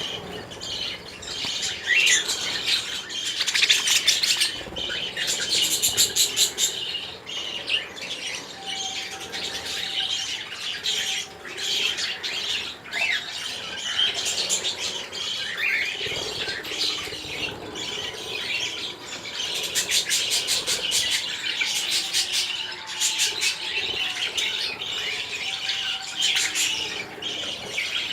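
Many small birds chirping and chattering without pause, with bursts of rapid clicking every so often.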